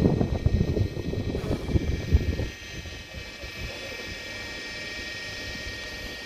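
A train pulling into the station: loud low rumble and wheel clatter for about the first two and a half seconds, then it drops to a steady quieter hum with a high electric whine.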